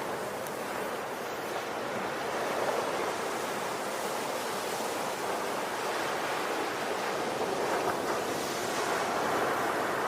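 Ocean surf: waves breaking and washing on the shore in a continuous rush that swells and eases gently.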